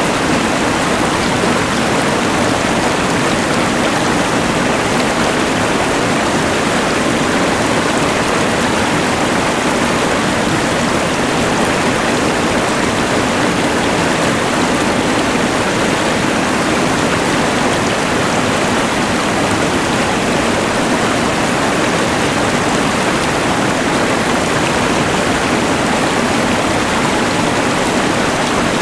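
Rushing mountain river mixed with the hiss of a LectroFan white noise machine: a steady, unbroken rush of noise with no separate events.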